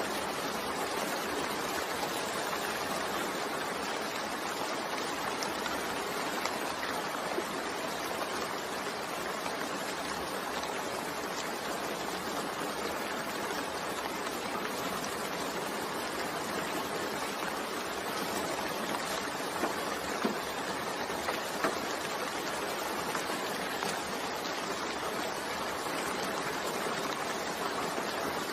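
Steady rain falling, an even hiss of drops with a few faint individual drip ticks.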